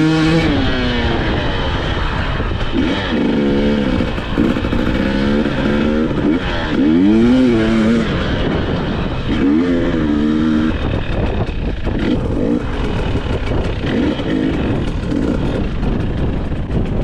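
2020 KTM 300 XC-W TPI single-cylinder two-stroke dirt bike ridden over gravel, its engine revving up and dropping back again and again over a steady rushing noise.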